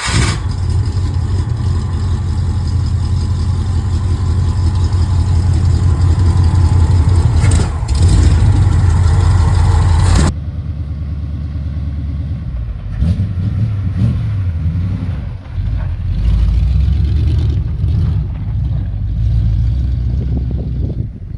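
Jeep engine running, loud and steady for about ten seconds, then abruptly quieter, with uneven rises and falls in level.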